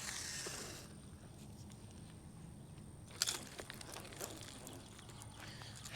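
A catfish rod's line being cast back out: a brief hiss of line running off the reel that stops suddenly about a second in, then one sharp click about three seconds in, over a faint steady high tone.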